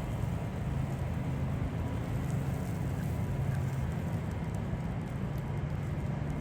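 Steady low rumble of downtown street ambience, with distant traffic noise.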